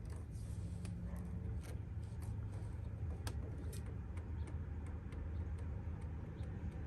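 Irregular light clicks and taps of hands and tools working an oil filter loose on a small generator engine, over a steady low hum.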